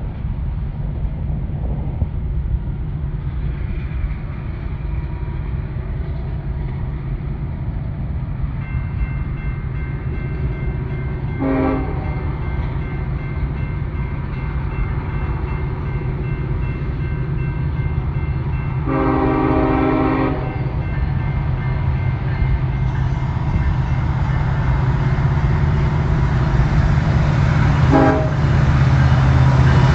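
Union Pacific diesel freight locomotives approaching, their low engine rumble growing louder. The air horn sounds three times: a short blast about 12 seconds in, a longer one around 19 to 20 seconds, and another short blast near the end.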